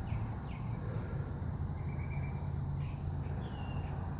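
Outdoor background: a steady low hum with a few faint, short high chirps.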